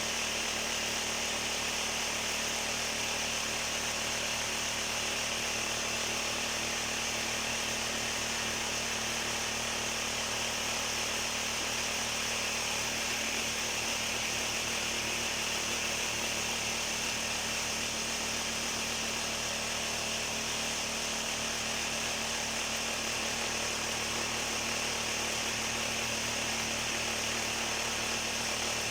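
Vibrating table running steadily: a constant motor hum with a hiss, unchanging throughout.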